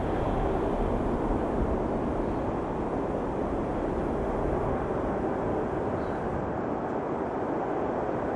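Jet airliner engines, a steady rushing noise with a deep rumble that thins out in the second half.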